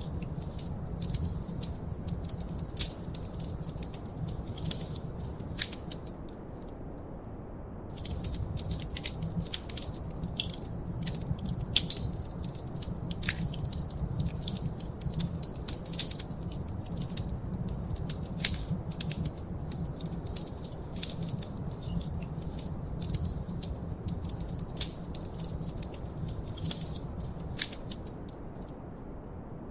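Wood fire crackling in a fireplace: frequent sharp, irregular pops and snaps over a low steady rumble. The crackling stops for about a second some seven seconds in, and again briefly near the end, while the rumble goes on.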